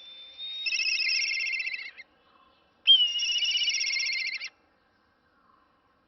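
A bird singing two high trilled phrases, each about a second and a half long, the second beginning about three seconds in.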